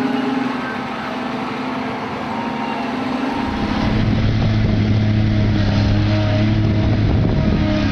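Heavy construction machinery engines running steadily; about three and a half seconds in the sound changes abruptly to a deeper, steadier engine drone.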